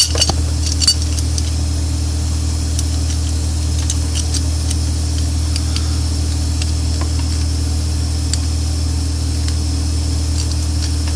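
An engine idling steadily at an even, unchanging pitch, with a few light metallic clicks near the start.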